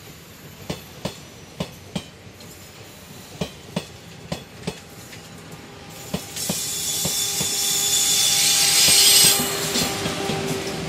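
Electric express train passing slowly: coach wheels click over rail joints, often in close pairs. About six seconds in, a loud steady hiss with a hum comes in and grows as the two WCAM 3 electric banking locomotives at the rear draw level, their blowers running.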